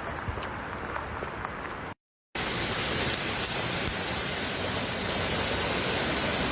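Steady rushing noise of floodwater. It cuts out completely about two seconds in, then comes back louder and hissier.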